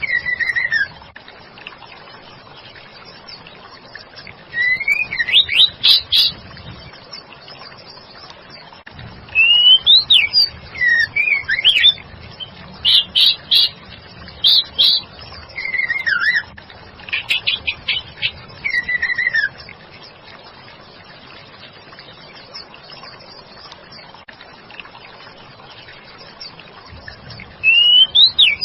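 Female white-rumped shama calling in bouts of quick chirps and swooping whistled notes, with short gaps between phrases. The calls stop for about seven seconds near the end, then a new bout starts.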